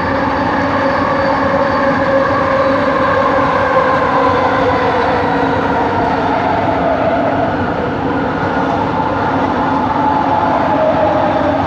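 LRT train running, heard from inside the car: steady running noise with a motor whine of several tones that slowly drift in pitch as the train's speed changes. It is the odd motor noise that the uploader traced to coach 4 of the set.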